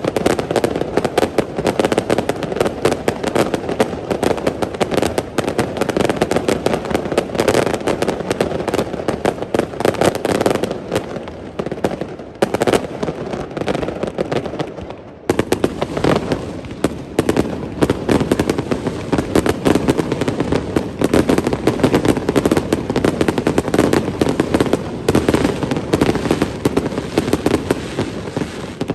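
Aerial fireworks display: a dense barrage of shells bursting in quick, unbroken succession, with a short lull about halfway through before the barrage resumes.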